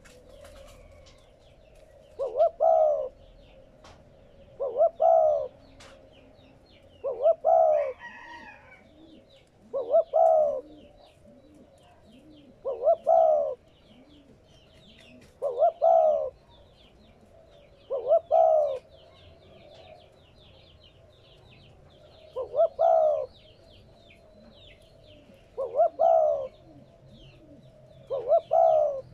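Spotted dove cooing, repeating its short phrase of a few coos about every two to three seconds, with faint chirping of small birds behind it.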